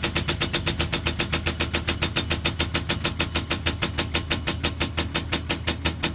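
Small portable piston air compressor running, with a rapid, even pounding of about eight pulses a second, while it supplies air to extend the bus's air-suspension bags.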